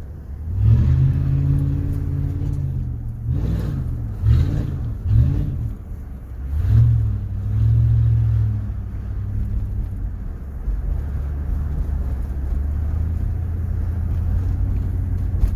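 Chevy 5.3-litre V8 exhaust with the muffler deleted, under throttle in several short rising and falling surges, then settling into steady running from about nine seconds in.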